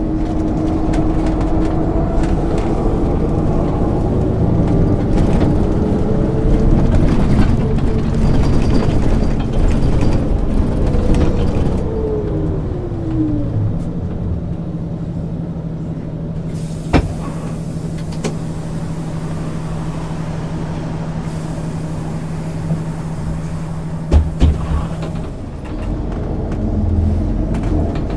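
MAN ÜL 353 bus heard from on board. The engine note rises and then falls for the first twelve seconds or so, then holds a steady idle with a sharp click partway through and a couple of thumps. The engine note picks up again near the end.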